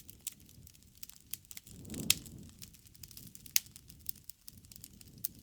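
Campfire burning: wood crackling with scattered sharp pops, the loudest about two seconds in and again about three and a half seconds in, over a low rush of flame that swells around two seconds.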